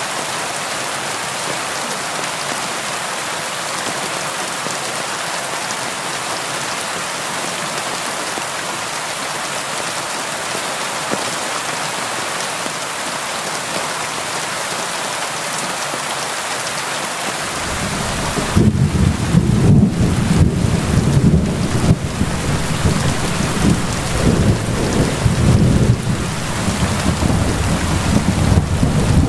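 Steady rain pattering on a window, with thunder coming in about two-thirds of the way through as a loud, low rolling rumble that goes on to the end.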